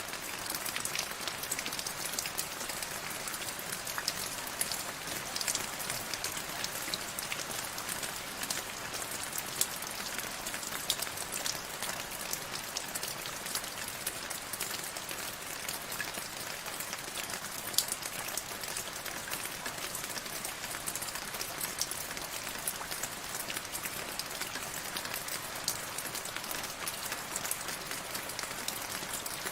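Steady rain falling, an even hiss with many individual drops ticking on a hard surface.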